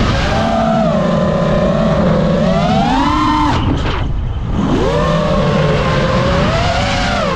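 5-inch freestyle FPV quadcopter's brushless motors and propellers whining, the pitch rising and falling with the throttle. Near the middle the pitch climbs, cuts out for under a second as the throttle is chopped, then swoops back up.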